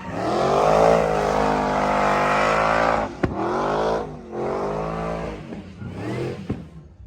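A vehicle engine revving hard in two long, high-rpm pulls with tire squeal over the top, the revs dropping off about three seconds in, climbing again, then fading near the end.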